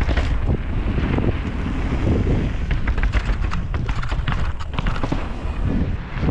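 Mountain bike descending, wind buffeting the microphone as a steady rumble, with a run of sharp clicks and rattles from the bike over rough ground in the middle.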